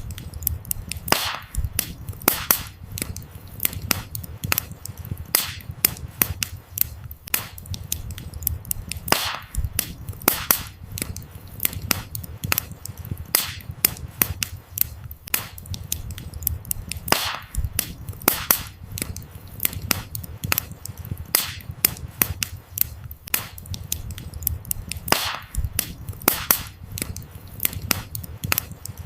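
Wood fire crackling: a dense, irregular run of small snaps and louder sharp pops from burning firewood over a low steady rumble.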